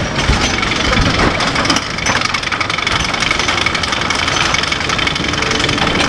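Machinery running steadily with a dense, rapid clatter.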